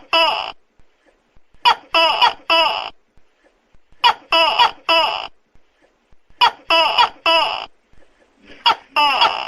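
Tokay gecko calling: loud, pitched, laugh-like calls in groups of three, the groups coming evenly about every two and a half seconds, four groups in all.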